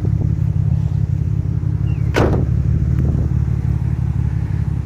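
1990 Nissan 300ZX twin turbo's 3.0-litre twin-turbo V6 idling with a steady low rumble. A single sharp knock sounds about two seconds in, with a short squeak just before it.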